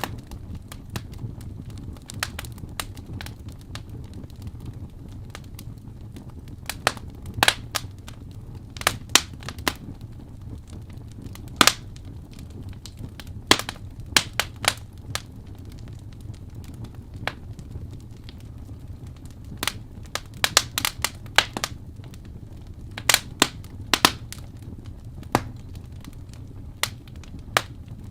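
Wood fire in a fireplace, logs crackling and popping: a steady low rumble of flames with irregular sharp pops, some in quick clusters.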